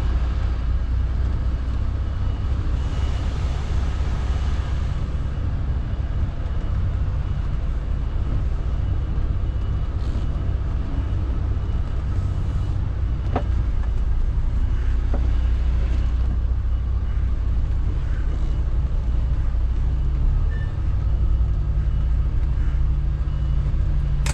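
Lorry's diesel engine running steadily as it is driven, a deep low rumble heard from inside the cab, with a brief hiss about three seconds in and a few light clicks.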